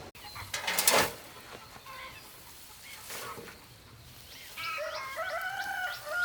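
A rooster crowing: one long call with a held note, starting about two-thirds of the way in. The loudest sound is a short, sharp noise about a second in, with a fainter one near the middle.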